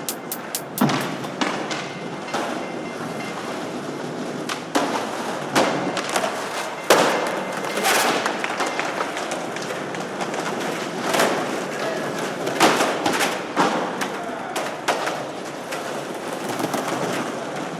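Experimental electronic music from a sampler: a dense noise texture scattered with irregular crackles, clicks and thuds, with no steady beat or clear melody.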